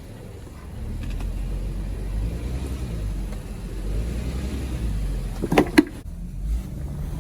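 A 3.6 VR6 engine in a 2014 Volkswagen Touareg running steadily through the stock exhaust, muffler still in place, getting a little louder about a second in. Two short sharp clanks come close together about five and a half seconds in.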